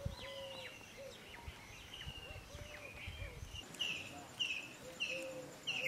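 Small birds chirping outdoors: scattered short calls and a few lower whistled notes at first, then a run of short repeated chirps about twice a second in the second half.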